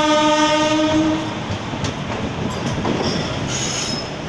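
A train horn holding one steady note that stops about a second in, over the steady rumble and rattle of a passenger train running along the rails, heard from the open coach doorway.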